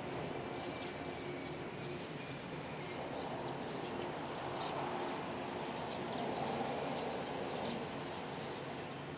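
A distant electric train moving slowly: a steady hum of motors and wheels on rail that swells to a low rumble in the middle and eases off near the end. Short bird chirps come and go over it.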